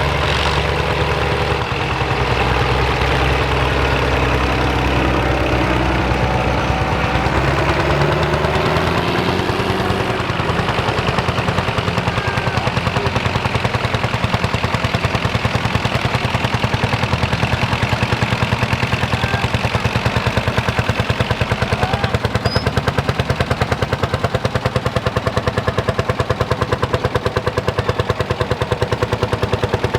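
Pampa tractor's single-cylinder two-stroke hot-bulb engine (a Lanz Bulldog type) working under load while ploughing, with a rapid, even thumping of its firing strokes. During the first several seconds another engine's tone rises and falls alongside it.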